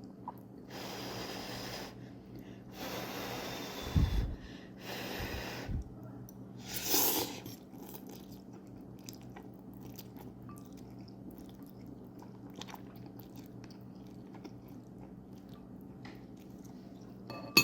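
A person eating spicy buldak ramen noodles: several loud breathy slurps about a second long in the first half, with two dull thuds around four and five seconds in, then quiet chewing with faint clicks.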